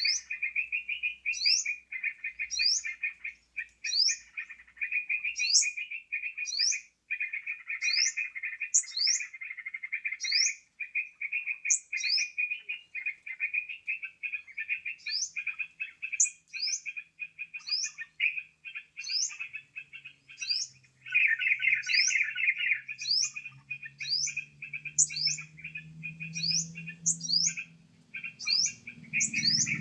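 Bird-lure recording of yellow-vented bulbul (trucukan) calls: dense, continuous chattering with a short, sharp, high falling note repeated about every 0.7 s. A faint low hum creeps in during the last third.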